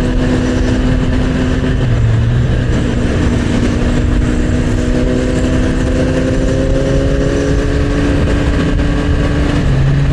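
Motorcycle engine running while riding, under a steady rush of wind and road noise. The engine note climbs slowly as it speeds up, then drops near the end.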